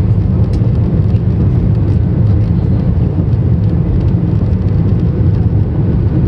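Steady low roar inside the cabin of an Air Busan A321-232 airliner in flight, from its IAE V2500 turbofan engines and the airflow over the fuselage.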